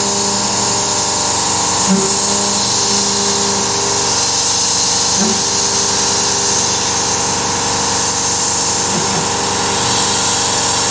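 Carvera Air desktop CNC mill running a milling cut: a steady high spindle whine with cutting noise, under a lower motor hum that breaks off and changes every few seconds as the machine moves from one cut to the next.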